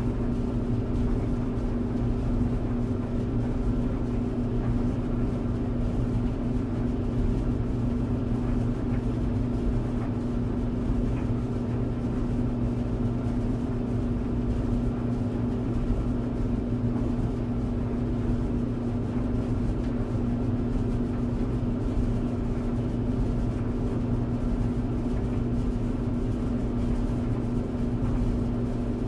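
Clothes tumble dryer running steadily: an even machine hum with a few held tones over a rushing noise, without distinct clunks or pauses.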